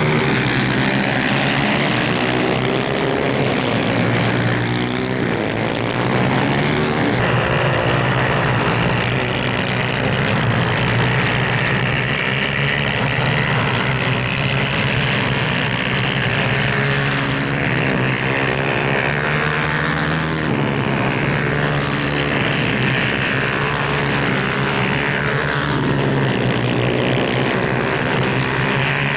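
250 cc racing kart engines running hard at high revs on track, their pitch rising and falling as they accelerate and lift off.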